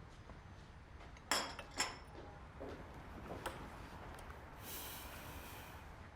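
Two sharp clinks or knocks about half a second apart, the loudest sounds here, then a few softer knocks and a short hiss.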